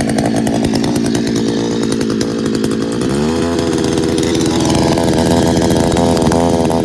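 A 62cc two-stroke outboard motor running with a buzzy note, revved up about three seconds in and held at a higher speed.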